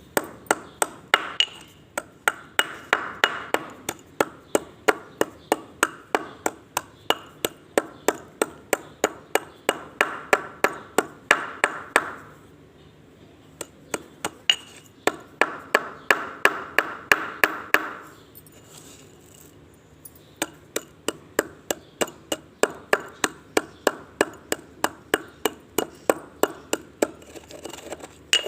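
Slate pencils being chewed: a steady run of sharp, dry crunches, about three a second, coming in three bouts with short pauses between.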